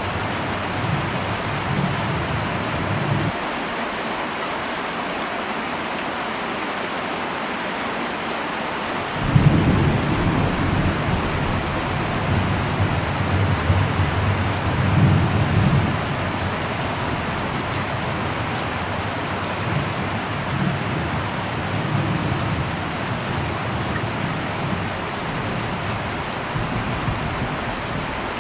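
Heavy rain drumming steadily on an old metal roof, with thunder rumbling underneath. The thunder drops away a few seconds in, rolls back in loudly about a third of the way through, and fades to a lighter rumble in the second half.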